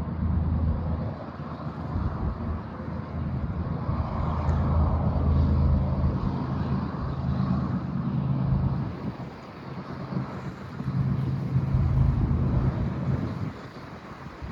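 Diesel freight locomotive engine running, a low droning rumble that swells and eases several times, with wind buffeting the microphone.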